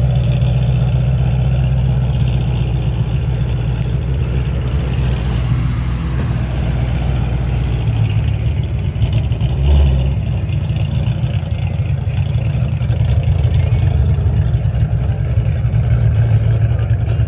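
Vehicle engine running steadily, with a brief louder swell about ten seconds in.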